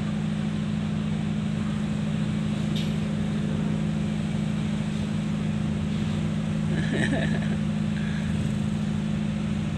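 Steady low hum of a running engine or motor, holding an even pitch and level throughout, with a couple of faint brief sounds over it.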